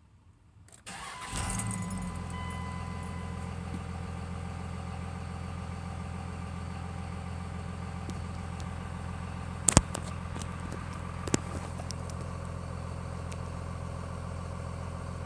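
1999 Dodge Ram 2500's 5.9-litre Cummins turbo diesel inline-six starting about a second in, catching quickly and settling into a steady idle. Two sharp clicks sound over the idle later on.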